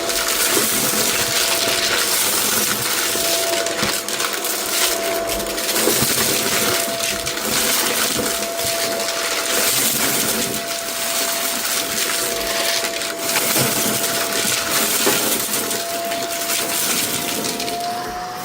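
Vacuum cleaner running over a rug with a steady motor whine, sucking up crunchy, rattling debris scattered on it. The whine rises slightly in pitch near the end.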